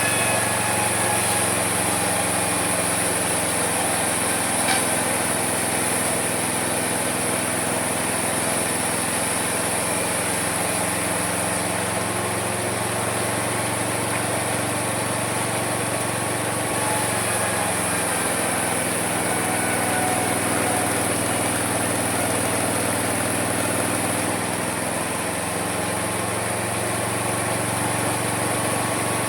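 Small engine of a homemade mini sawmill running steadily. For several seconds past the middle its note sags, then it recovers: the engine labouring under load as the saw cuts through the wood.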